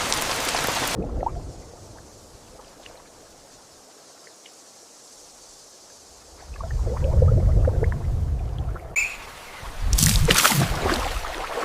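Rain falling steadily, cut off abruptly about a second in. After a quiet stretch come two loud bouts of water sounds, pouring and splashing, the second with sharp splashes.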